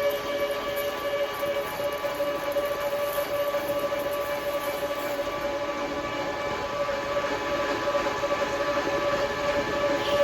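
Metal lathe running with a steady whine made of several held tones, while facing the end of a piece of aluminium bar stock.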